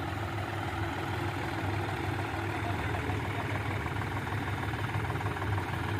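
John Deere 5105 tractor's three-cylinder diesel engine running steadily at a low, even idle.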